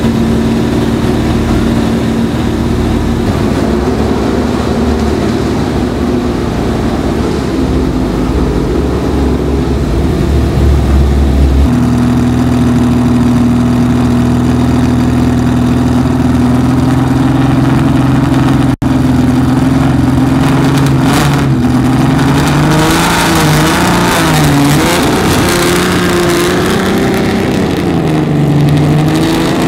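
Ferrari 275 GTB's V12 engine running at a steady idle. About three-quarters through, the pitch starts to rise and fall with light throttle blips as the car pulls away.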